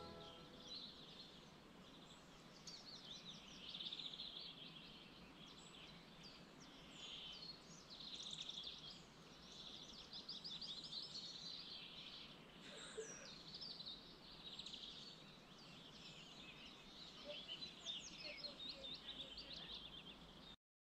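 Songbirds singing faintly, with quick trills and chirps repeating every second or two over a faint steady hiss; the sound cuts off suddenly near the end.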